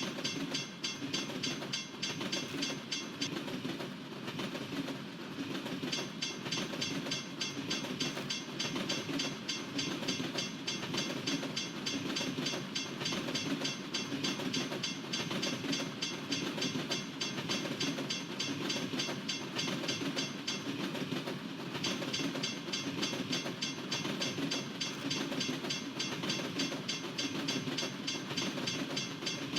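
Norfolk Southern freight train's cars rolling past a crossing: a steady rumble with a fast high-pitched rattle over it that drops out twice.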